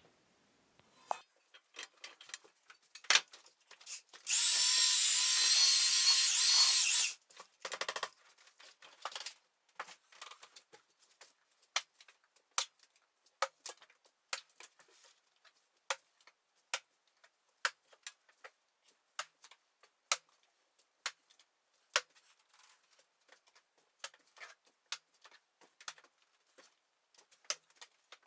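An electric drill runs for about three seconds, starting about four seconds in and cutting off sharply. Before and after it come scattered sharp taps and knocks, irregular and roughly one a second.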